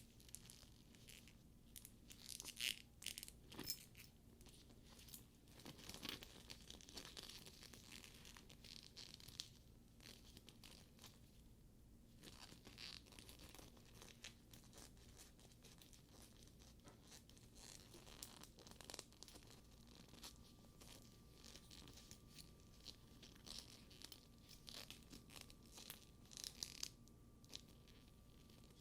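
Quiet, close handling of a faux leather bag's buckles and straps: soft rubbing and sticky leather peeling sounds with light irregular clicks and taps of metal hardware.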